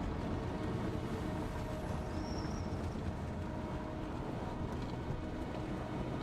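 Steady road and engine rumble of a moving vehicle.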